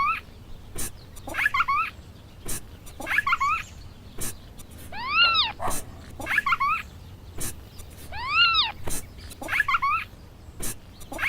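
Kitten meowing over and over, roughly every one and a half seconds; two of the meows, about five and eight seconds in, are longer and rise then fall. Short sharp clicks fall between the meows.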